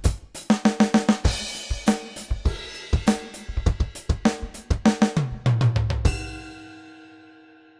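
Sampled acoustic drum kit from Roland's DrumStudio Acoustic One software, played from a pad controller: a beat of kick, snare, hi-hat and cymbals, a fill about five seconds in, then a final hit about six seconds in that rings out and fades away.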